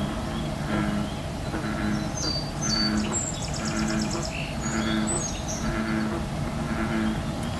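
Birds chirping, with a fast high trill a few seconds in, over a low pitched sound that repeats about once a second.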